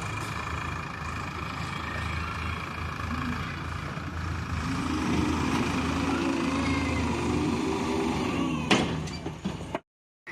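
Diesel engine of heavy machinery running steadily. About halfway through, a wavering whine joins it, as if under load. A sharp knock comes near the end, and then the sound cuts off abruptly.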